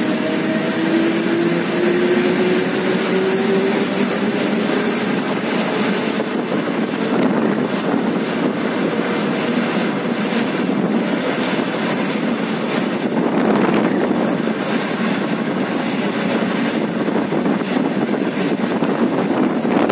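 Suburban electric train running, heard from inside the carriage: a steady rumbling rush of wheels and motion, with a faint whine rising slowly in pitch over the first few seconds.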